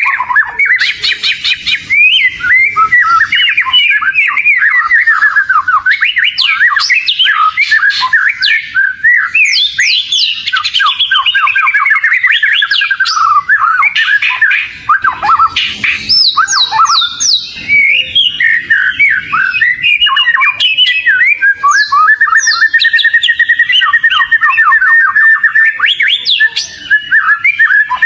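Oriental magpie-robin (kacer) singing nonstop: a loud, rich, rapidly changing song of fast trills, sweeping whistles and chattering notes with hardly a pause.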